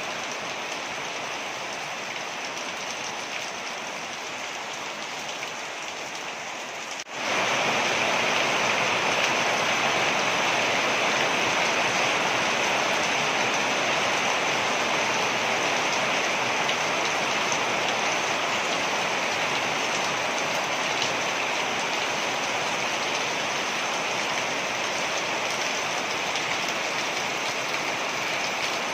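Steady rush of falling water. About seven seconds in, it cuts out for an instant and comes back louder and brighter.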